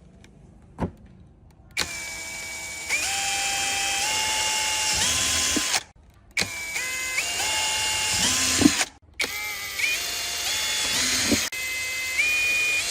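Electric motor whine in four runs of a few seconds each. Each run starts lower and steps up in pitch in stages, then cuts off abruptly. A single click comes just before the first run.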